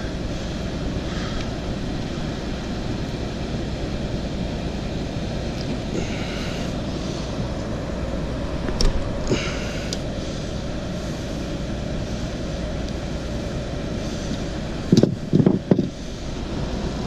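Steady running hum of an HVAC unit's fan. A few light clicks come about halfway through, and a cluster of louder knocks near the end, from tools and panels being handled.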